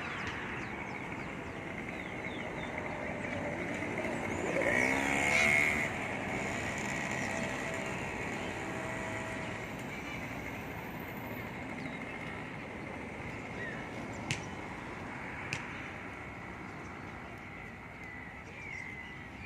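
Outdoor background noise with small birds chirping, one drawn-out call with a wavering pitch about five seconds in, and two sharp clicks a little past the middle.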